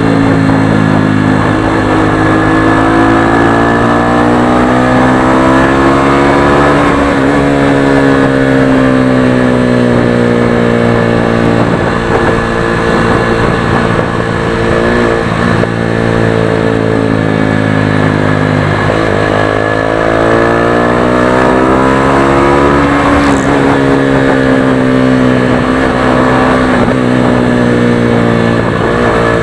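Motorstar Xplorer Z200S motorcycle engine under way, heard through an exhaust with no silencer. The engine note climbs steadily, drops sharply, then climbs again several times over, as the rider pulls through the gears and shifts.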